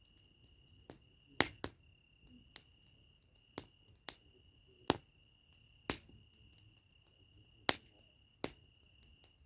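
Campfire wood crackling, with sharp irregular pops about once or twice a second. A steady thin high tone runs underneath throughout.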